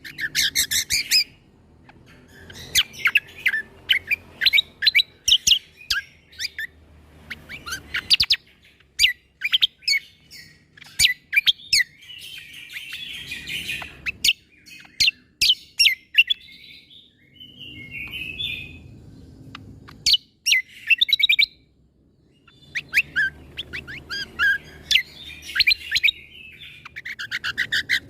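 Cucak kombo (kecial kombok) singing in loud bursts of rapid, sharp, high clicking notes, its 'tembakan' (shot) phrases, with short pauses between phrases.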